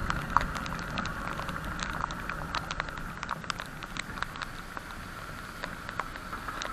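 Rain falling, with drops pattering irregularly close by over a steady hiss.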